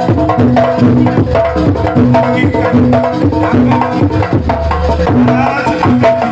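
Live jaranan music: hand drums played in a busy rhythm under a steadily repeating figure of short pitched notes.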